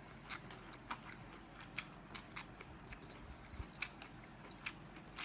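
Close-miked chewing of scallop meat and vermicelli: a string of sharp, wet mouth clicks at an irregular pace, roughly two a second, fairly faint.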